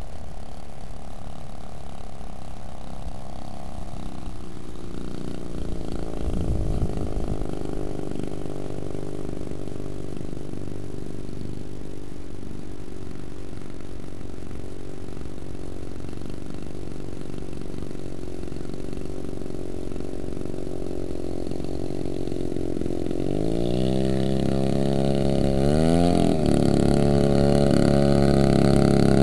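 Small engine of a giant RC model plane running with its propeller, pitch shifting with the throttle. It rises and grows louder in the last few seconds, with one quick drop and recovery.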